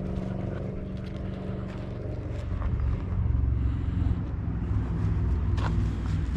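A motor engine droning steadily, growing louder about three seconds in, with a few light ticks over it.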